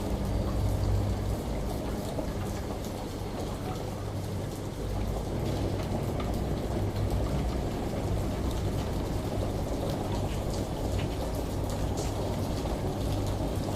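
Steady rain and running water with a low machine hum, typical of a washing machine motor. The hum fades in and out, with scattered drop ticks over the water noise.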